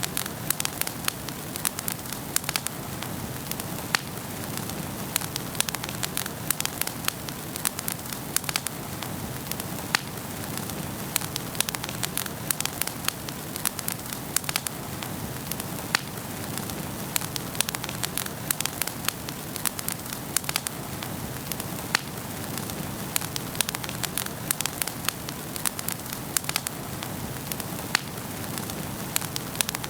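Wood fire burning in a fireplace: a steady low rumble and hiss of the flames with frequent sharp, irregular crackles and pops from the burning logs.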